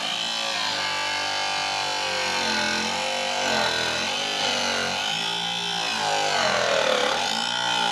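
Homemade table saw's 775 DC motor on 12 volts running loud, its whine dipping and rising over and over as the blade takes load cutting through wood.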